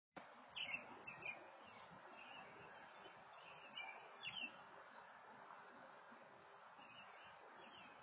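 Faint bird chirps, a handful of short high calls scattered over a quiet, steady background hiss.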